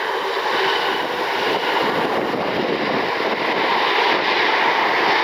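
Jet airliner arriving on approach: a steady engine roar that grows slightly louder.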